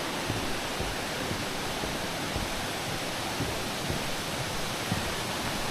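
A waterfall rushing: a steady, even wash of falling water.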